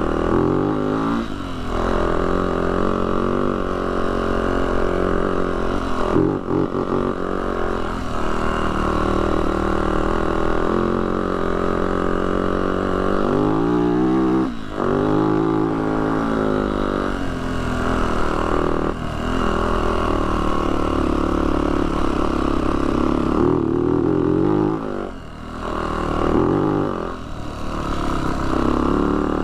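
Yamaha YZ450F dirt bike's single-cylinder four-stroke engine running as the bike is ridden, its pitch rising and falling with the throttle and gear changes, with brief drops in revs about 14 and 25 seconds in.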